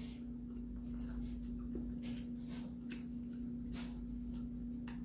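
Close-up mouth sounds of someone eating chicken feet by hand: chewing, lip-smacking and finger-licking, heard as a scatter of soft wet clicks at uneven moments. A steady hum runs underneath.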